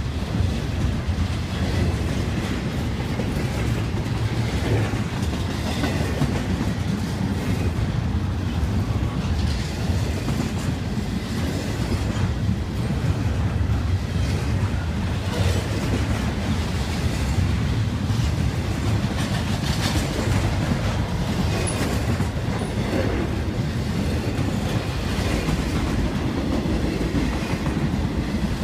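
Intermodal freight cars, double-stack containers and then trailers on flatcars, rolling steadily past at close range: a constant low rumble with scattered knocks and clatter from the wheels and cars.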